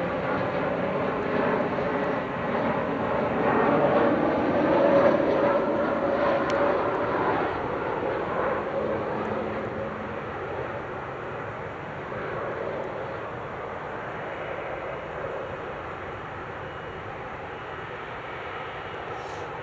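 Jet airliner's engines passing by, loudest about five seconds in, then fading away steadily.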